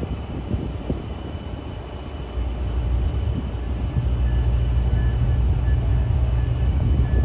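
Diesel passenger train locomotive running with a low rumble that grows louder about two and a half seconds in and again at four seconds.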